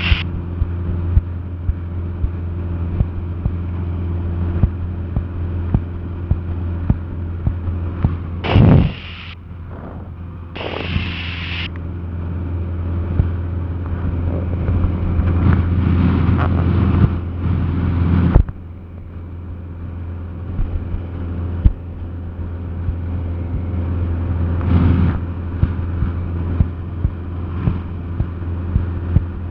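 Cabin drone of a Cessna 172SP in cruise: its four-cylinder Lycoming engine and propeller running steadily at a constant pitch. Frequent sharp clicks sound over the drone, with two short bursts of hiss about nine and eleven seconds in.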